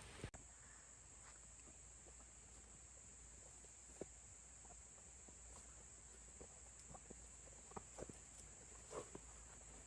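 Faint outdoor ambience: a steady high-pitched insect buzz, likely crickets, with a few soft scattered ticks and knocks, the clearest about four seconds in and a cluster near the end.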